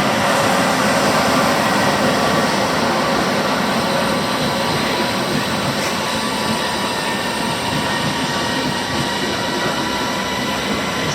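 A train running through the station: a steady, even noise of wheels on rails with a faint whine held over it.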